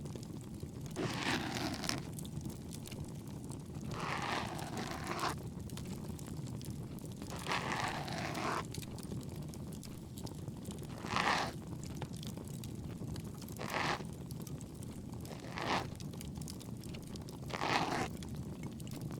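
Ear pick scraping in the ear in about seven slow scratchy strokes, the first three about a second long and the later ones shorter, over the steady low crackle of a campfire.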